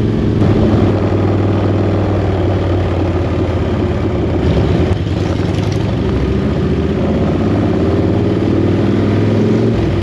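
Chopper motorcycle's engine running steadily under way, with rushing air noise over it. The revs pick up near the end.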